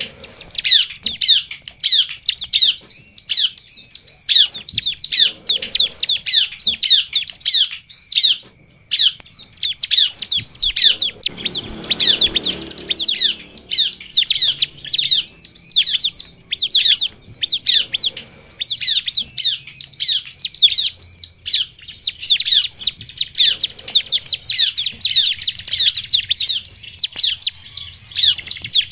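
Bar-winged prinia (ciblek) singing vigorously: a fast run of sharp, high chirping notes, several a second, broken by a few short pauses.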